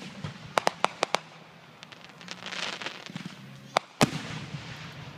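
Aerial fireworks bursting: a quick run of sharp cracks about half a second to a second in, a crackling hiss in the middle, and more bangs about four seconds in.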